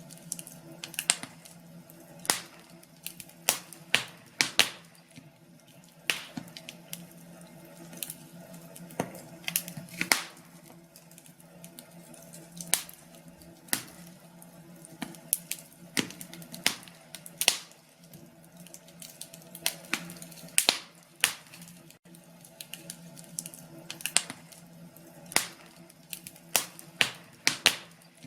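Wood fire crackling in a fireplace: irregular sharp pops and snaps, several close together at times, over a faint steady low hum.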